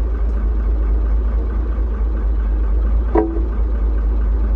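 Hino truck's diesel engine running steadily at idle, a deep rumble, with a single sharp metallic clank about three seconds in.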